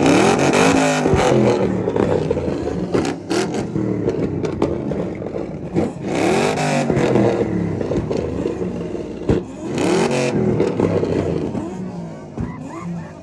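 A car engine revved hard over and over, its pitch climbing and dropping in repeated sweeps, with the biggest surges near the start, about six seconds in and about ten seconds in.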